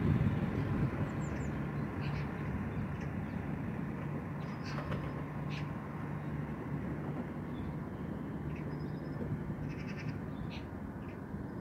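Scattered short, high bird calls over a steady low rumble, with a low hum running through the middle stretch.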